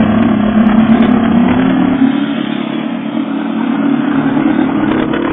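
Yamaha YZF1000's inline-four engine running steadily through a Yoshimura aftermarket exhaust with the dB killer baffle removed, its pitch wavering only slightly.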